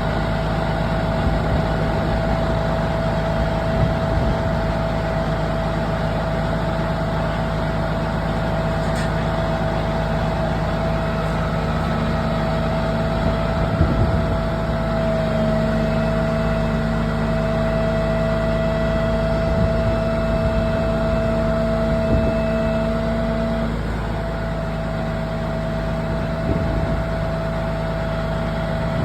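Heavy vehicle engine idling steadily, with a few short knocks here and there.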